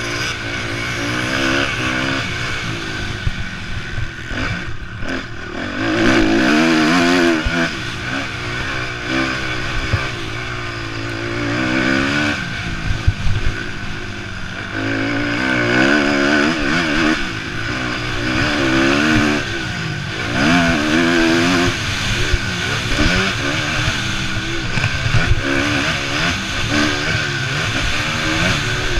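Motocross bikes racing on the track, their engines revving up and falling back over and over as they accelerate, shift and pass. Several bikes are heard at once, swelling louder as they come close.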